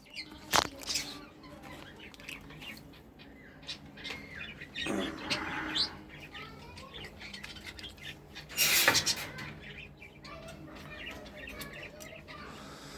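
Pigeons flapping their wings in short bursts, a brief flutter about five seconds in and a louder one about nine seconds in, with a sharp knock just after the start.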